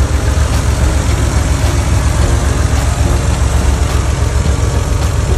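1991 Porsche 911 Carrera 2's air-cooled 3.6-litre flat-six idling steadily, heard close up at the open engine bay.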